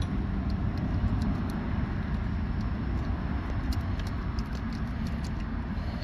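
A steady low rumble with scattered light clicks.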